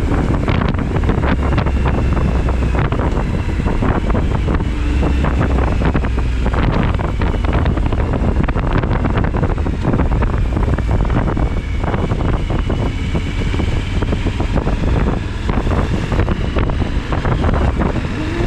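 Wind buffeting the microphone at riding speed on a motorcycle, with the steady low drone of the Suzuki V-Strom 1000XT's V-twin engine underneath.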